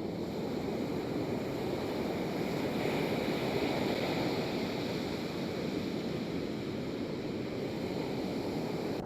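Ocean surf washing on the beach as a steady rush of noise, swelling a little about three to four seconds in as a wave breaks.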